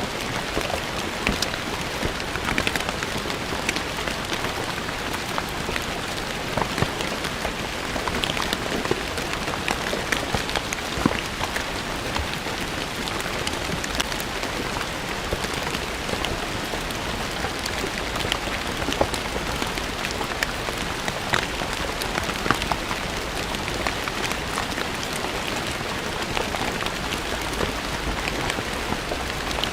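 Steady rain falling on stone paving, a constant hiss with many separate drops pattering and splashing on the stone.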